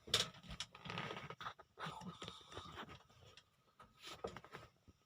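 Irregular rustling and light knocks of things being handled, without any steady engine sound.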